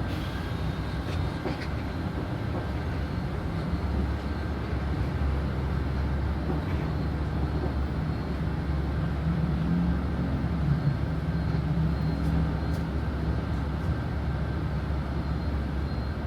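Cabin noise of a Transjakarta city bus under way: a steady low engine and road rumble that gets heavier about four seconds in.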